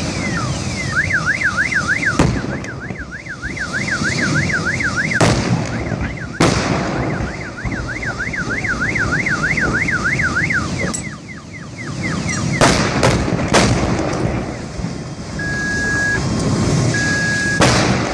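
A car alarm wails in fast rising-and-falling sweeps, then stops about eleven seconds in, while sharp bangs break out from the burning, exploding truck, a few in quick succession past the middle. Near the end a vehicle's reversing beeper sounds in slow, even pulses over the low rumble of traffic.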